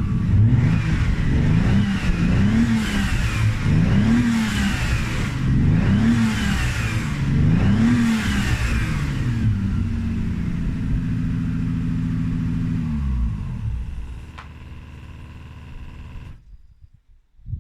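Toyota 1G-GTE twin-turbo straight-six in a Celica being blipped five times, each rev rising and falling back, then settling to a steady idle. About thirteen seconds in the engine note drops away as it winds down and stops.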